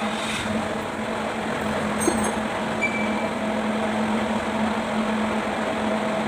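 Engine running steadily with a constant hum, like a diesel at idle.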